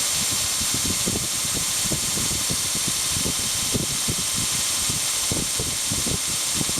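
2x72 belt grinder with a 3,480 rpm electric motor running flat out with no work on the belt: a steady high hiss with irregular low knocks underneath.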